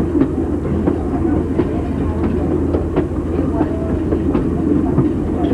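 Passenger car wheels rolling on rail: a steady rumble with irregular clicks as the wheels cross the rail joints.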